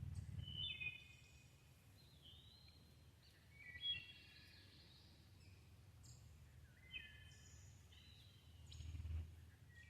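Faint small-bird chirps, short high calls in several clusters, over a weak low rumble of wind that swells briefly a few times.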